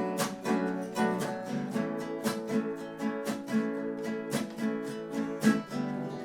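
Instrumental music: a guitar strummed in a steady rhythm, the strumming stopping near the end.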